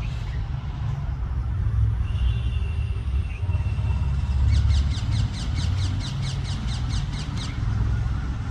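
A parrot chick's rapid run of short, falling begging calls, about five a second for some three seconds mid-way, over a steady low rumble.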